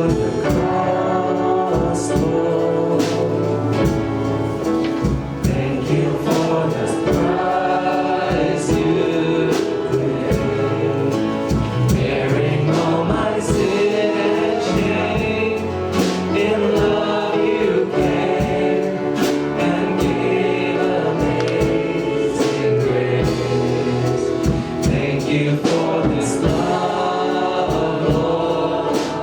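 Gospel worship music: a group of voices singing together over a band, with a steady beat.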